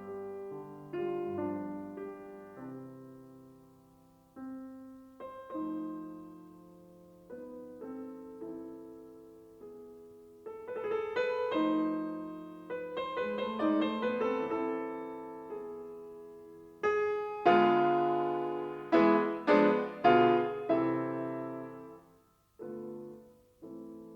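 Solo piano music: slow, gentle phrases of decaying notes and chords, growing to louder struck chords in the second half.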